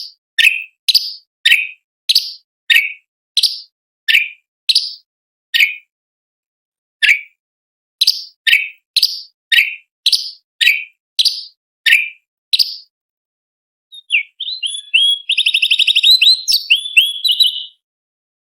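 Cucak cungkok (orange-bellied leafbird) singing: a long run of sharp, down-slurred whistled notes, nearly two a second, broken by one short pause, then a rapid chattering trill near the end.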